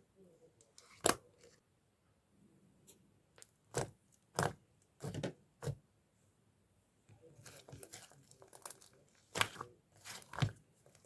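Hands playing with slime: a series of short, sharp sticky pops and squelches, about seven louder ones, with a stretch of softer quick crackling in between.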